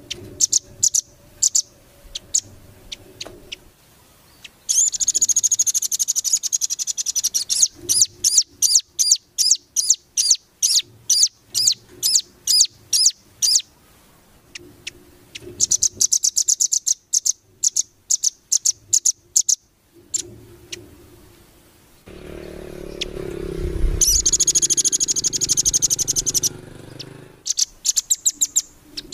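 Small songbird singing a fast series of sharp, high-pitched repeated notes, broken by two dense rapid trills. A low rumble runs under the song for several seconds near the end.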